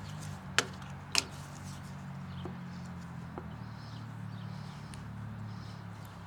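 Steady low hum of a passing car's engine, its pitch shifting a little midway through. Two sharp clicks about half a second apart come about a second in, and another at the very end.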